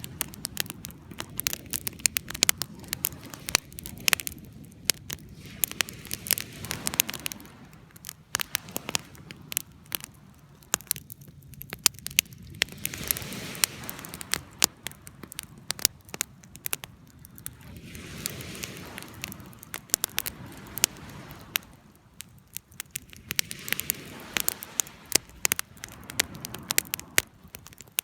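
Wood campfire burning, with frequent sharp crackles and pops over a soft rushing sound that swells and fades every few seconds.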